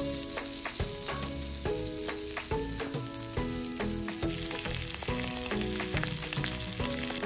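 Salmon fillets frying in hot oil in a grill pan: a steady sizzle full of fine crackles as the fish sears. Soft music runs faintly underneath.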